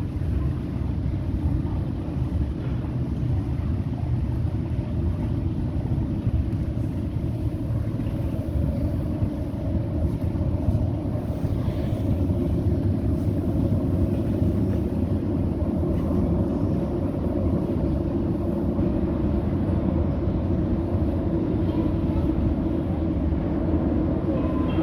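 81-717.6 metro train running between stations, heard from inside the car: a steady rumble and drone of wheels on rails and running gear.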